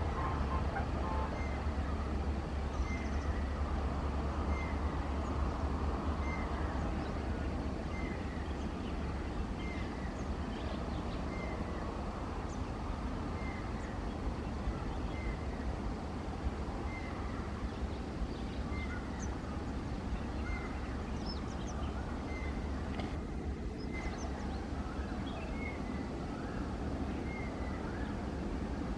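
Diesel engine idling with a low steady rumble, over which a short high chirp repeats about once a second. A few faint bird calls come in midway.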